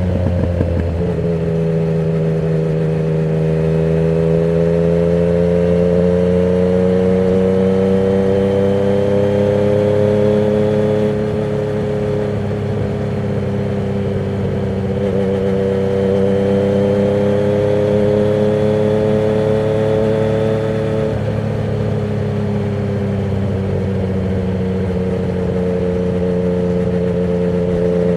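Yamaha MT-09's three-cylinder engine running through a Termignoni exhaust with the dB killer removed, while being ridden. The revs climb slowly, then step down sharply twice, about eleven seconds in and again about twenty-one seconds in, and hold steady near the end.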